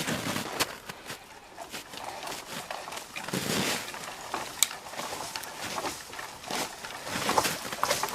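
Irregular crunching, cracking and snapping of branches and brush being worked by hand, in a quick run of sharp cracks with a few longer rustling stretches.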